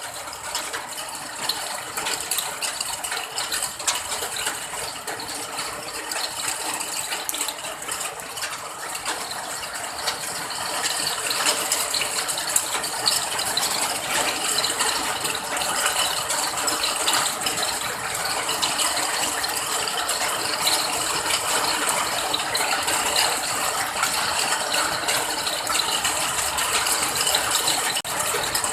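Steady rain falling, a dense mass of small drop impacts; it grows a little louder about ten seconds in.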